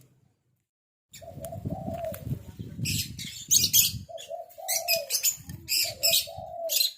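Pet green pigeon (punai daun) flapping its wings and giving repeated low cooing notes, starting about a second in.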